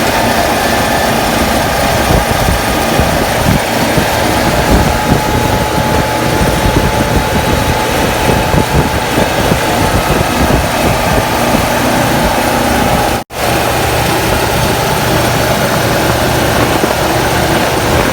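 Kubota tractor's diesel engine running hard and loud under way, a fast, dense chugging with a steady whine over it; the sound cuts out for an instant about thirteen seconds in.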